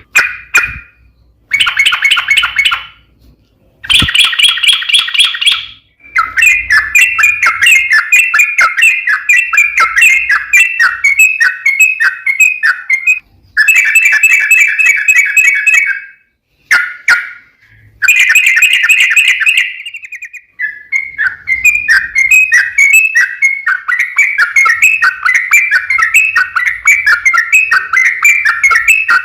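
Yellow-vented bulbul (trucuk) singing a long, rapid chattering 'ropel' of quick chirped notes. It comes in several bursts, short ones first, then runs lasting several seconds, broken by brief pauses.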